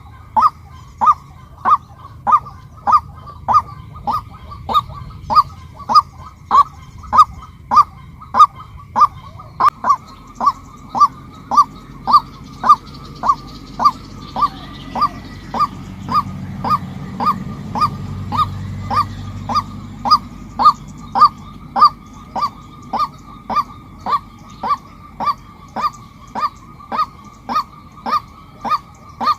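Female white-breasted waterhen calling a single short note over and over in a steady rhythm, about two calls a second.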